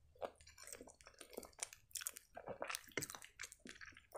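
A person chewing soft penne in a creamy Alfredo sauce with the mouth closed: a run of irregular short mouth smacks and clicks.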